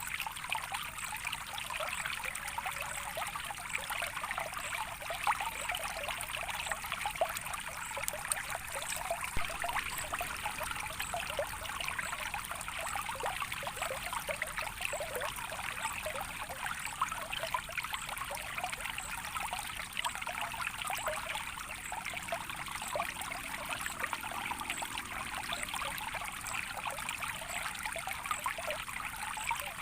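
A small stream trickling steadily, with many small splashes of water.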